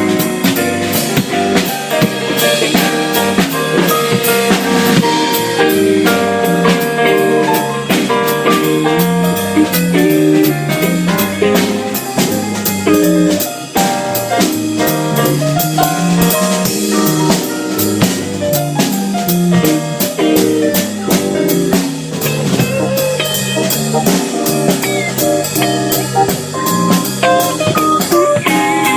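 A jazz band playing a blues, with drum kit, guitar and a low bass line moving in steady steps under the melody.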